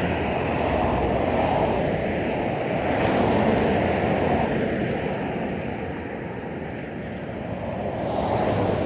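Steady, low rushing noise of wind buffeting the microphone outdoors, easing a little about two-thirds of the way through and then building again.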